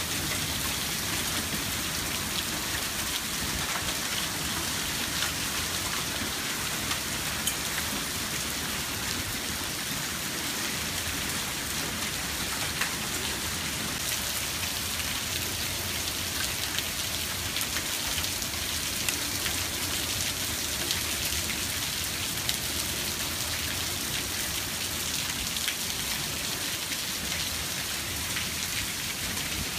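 Heavy rain falling steadily on a patio and lawn, with a dense patter of sharp ticks from drops striking hard surfaces.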